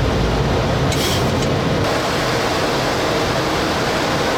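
Steady rushing noise of an airliner cabin, from the Boeing 737 MAX 8's engines and airflow. A brief hiss comes about a second in.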